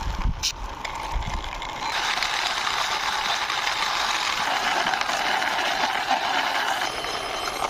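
A toy vehicle being pushed along by hand. Its wheels and gears make a steady mechanical rattle that starts about two seconds in, after a few light knocks.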